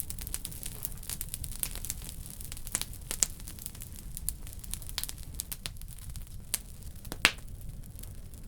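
Wood fire burning in a wood stove, crackling with many small irregular snaps and one louder pop near the end, over a steady low rumble.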